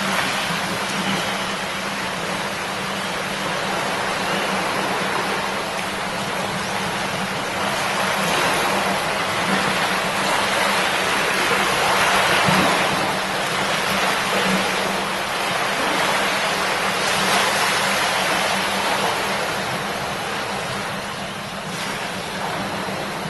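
A shallow river babbling: a steady rush of running water that grows a little louder around the middle.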